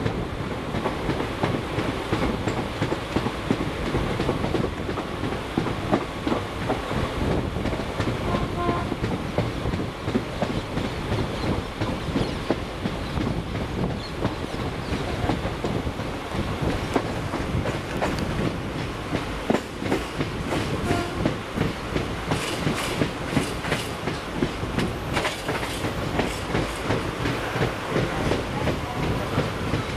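An Indian Railways express passenger coach running at speed, its wheels clattering over rail joints, heard through the open door. The clicks come thick and sharp in the second half.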